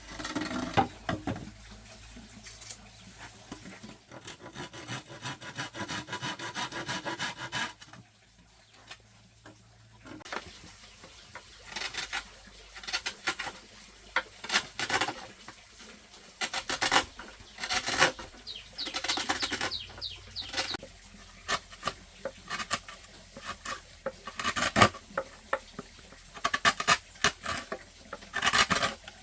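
Hand scraping and rubbing, fast and rhythmic for a few seconds, then a short pause followed by a long run of irregular knocks and clicks.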